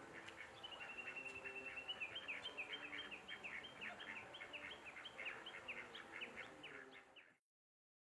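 A bird singing: a held high whistle about half a second in, then a long run of quick down-slurred notes, several a second, over faint outdoor ambience. The sound cuts off suddenly near the end.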